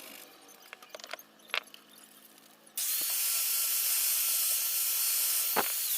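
A few light taps and clicks, then about three seconds in an electric power tool switches on and runs steadily with a high whine and a loud hiss.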